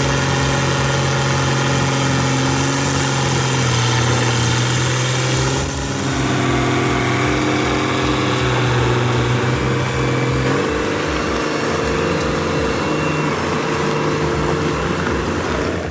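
A heavy machine's engine running steadily with a constant droning note, which shifts slightly about six seconds in and again about ten seconds in.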